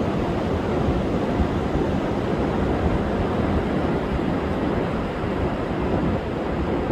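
Rough surf breaking continuously on a sandy beach in strong wind: a steady, unbroken wash of wave noise, with wind buffeting the microphone as a low rumble.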